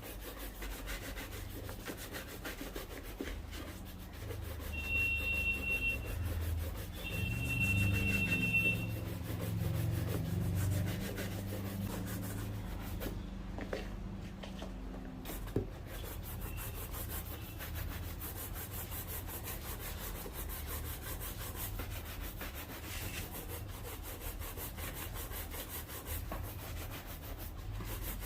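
Steady scratchy rubbing on a shoe, worked by hand in the cobbler's cleaning and restoration, growing louder and heavier for several seconds from about four seconds in. Two brief high whistle-like tones sound about five and seven seconds in.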